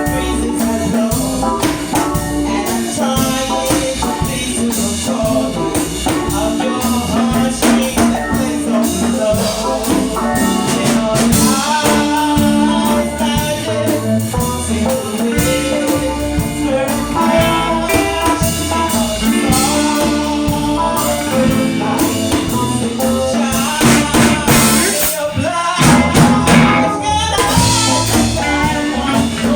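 A live band playing a cover song with drums, tambourine and singing.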